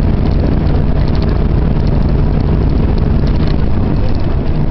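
Car driving along a road: a steady, loud, low rumble of engine and road noise.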